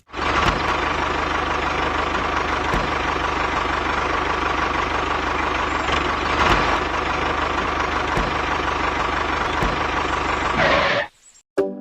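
A small motor running steadily, with a fine, even rhythm, cutting off abruptly near the end.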